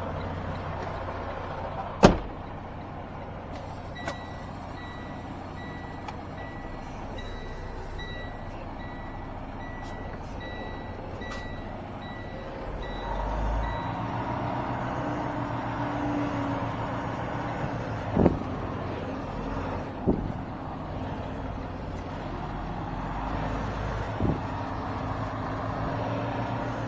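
Semi-truck diesel engine running, with an electronic beeper sounding at an even pace for about ten seconds; after that the engine rises as the truck moves forward. A few sharp knocks break through, the loudest about two seconds in.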